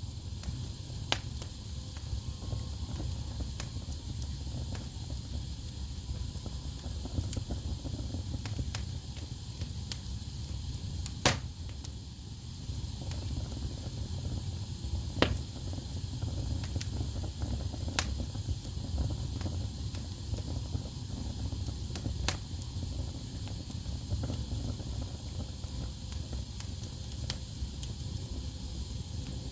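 Wood fire burning in a fireplace: a steady low rumble and hiss of the flames, broken by scattered sharp crackles and pops from the logs, the loudest about 11, 15 and 18 seconds in.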